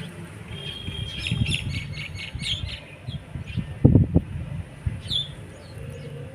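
Rabbit chewing food close to the microphone, a low crunching with a few louder crunches about four seconds in, while small birds chirp in the background.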